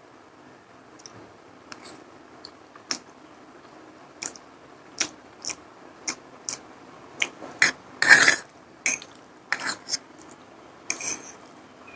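Spoon or fork clicking and scraping against a bowl or plate as noodles are eaten, in irregular short clicks. A longer, louder burst of noise comes about eight seconds in.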